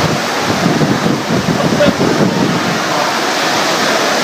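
Loud, steady rush of a violent windstorm, with wind buffeting the microphone.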